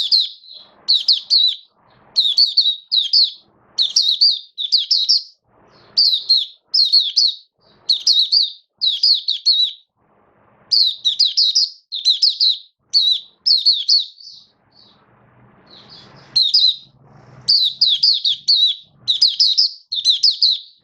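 White-eye singing: short, rapid warbling phrases, high-pitched, repeated about once a second, with a pause of a couple of seconds about two-thirds of the way through.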